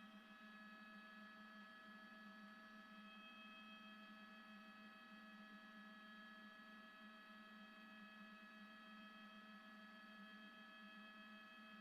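Near silence: only a faint steady electronic hum with several thin high tones over it, unchanging throughout.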